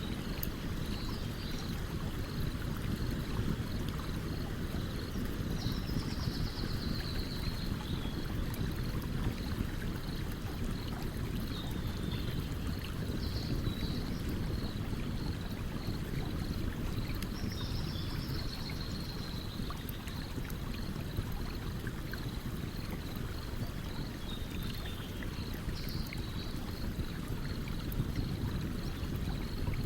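Streamside campfire ambience: a steady rushing stream with the fire crackling in scattered faint pops. High chirps recur every few seconds, some sliding down in pitch.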